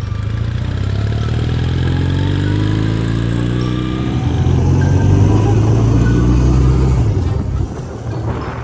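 Motorcycle engine running under load, its pitch rising as it accelerates over the first few seconds and then holding steady; it eases off a little near the end.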